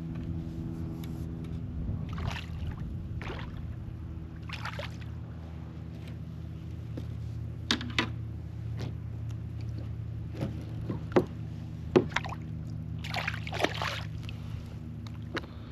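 Water splashing and sharp knocks at a kayak as a small snook is reeled in and brought aboard, with several short splashes and clicks in the second half, over a steady low hum.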